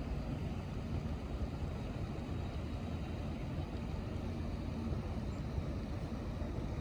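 Steady low engine rumble with a faint steady hum, without change.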